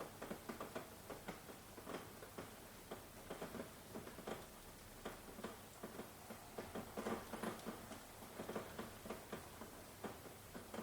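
Rain dripping and pattering in irregular, closely spaced drops, each a short tick.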